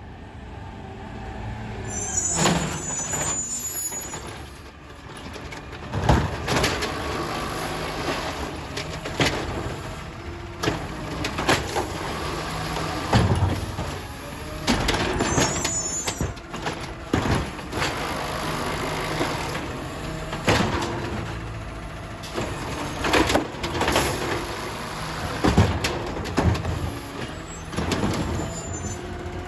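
Garbage truck collecting trash: its diesel engine runs steadily under repeated knocks and bangs of bins being handled and emptied, with two short air-brake hisses, about two seconds in and again near the middle.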